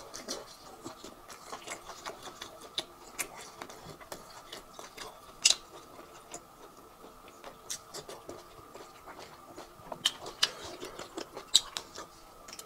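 Close-miked eating sounds: wet chewing, lip smacks and mouth clicks, coming irregularly, with a few louder sharp smacks, over a faint steady hum.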